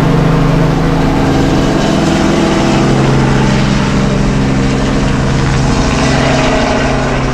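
Tour helicopter running nearby: a loud, steady engine and rotor sound with several low humming tones.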